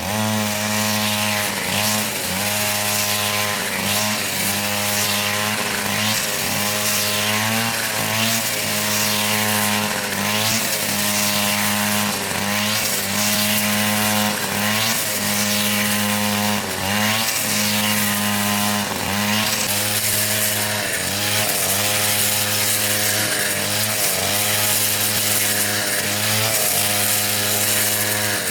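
Chainsaw running steadily and cutting wood, its pitch dipping briefly again and again as the chain bites in.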